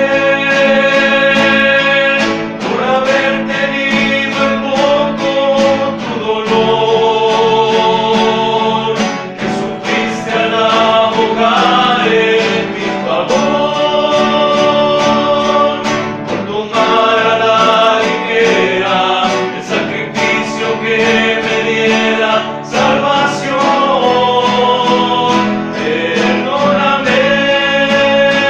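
Men's rondalla singing a slow hymn in harmony over strummed and plucked guitars, in long held phrases of a few seconds each.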